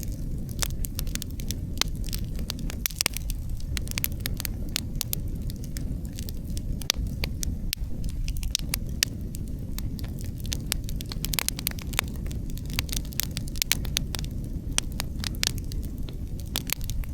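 Outdoor wood campfire crackling, with many irregular sharp pops and snaps, over a steady low rumble of wind.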